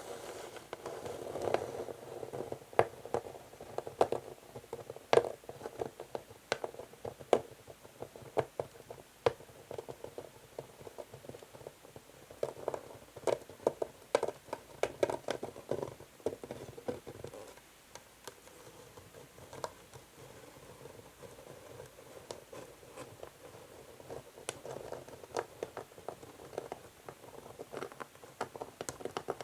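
Fingernails scratching slowly across an old wooden chess board, with many sharp, irregular clicks of nails catching and tapping on the wood. There is a quieter spell of softer scratching in the middle.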